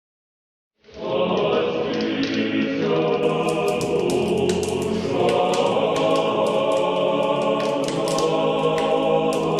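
Choral music with many voices singing together starts abruptly about a second in, after total silence, and plays on loudly.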